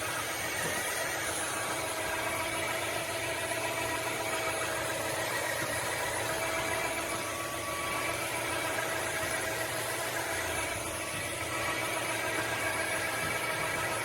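Narwal S30 wet-dry vacuum mop running steadily, its motor giving a whine of several steady tones over a rushing hiss as it cleans up leaves and debris.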